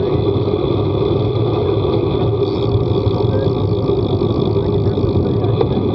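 Steady, loud running noise of a moving vehicle, a constant low rumble that does not change.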